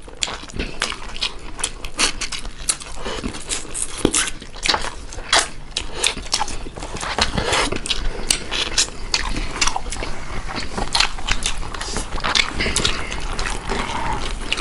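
Close-up eating sounds: wet chewing and lip smacking as rice and meat curry are eaten by hand, with many short irregular clicks and some squishing of rice on steel plates.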